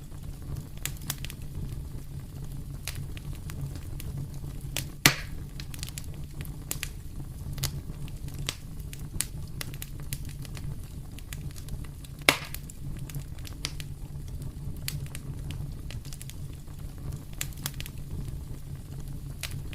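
Fireplace fire crackling: a steady low rumble of the flames with frequent small sharp crackles and two louder pops, one about five seconds in and one about twelve seconds in.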